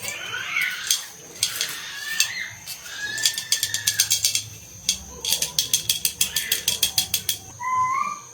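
Mechanical clicking in two quick runs of about ten clicks a second, with a few short chirps between them.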